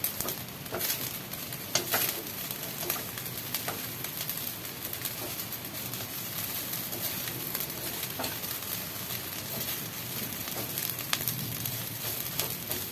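Food sizzling in a hot frying pan while being stirred, with occasional short clicks of the utensil against the pan.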